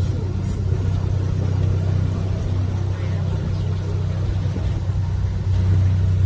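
Canal tour boat's engine running steadily with a low hum, getting louder about five and a half seconds in.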